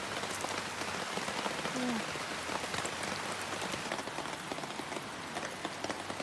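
Heavy rain falling steadily, with many small drop ticks through the hiss. A brief voice sound about two seconds in.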